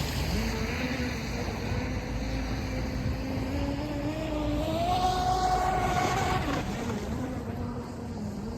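Electric motor of a UDI022 RC speedboat whining as the boat runs, its pitch climbing about halfway through and dropping back near the end as the throttle changes, over a low rumble.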